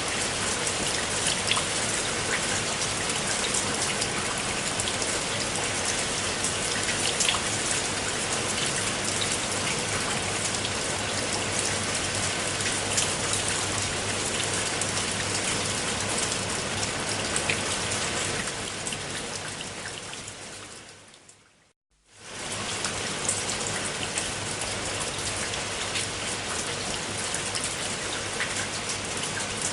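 Steady rain, with individual drops ticking through a dense hiss. About two-thirds of the way through it fades out to a brief moment of silence, then starts again abruptly at full strength, as at the join of a looped recording.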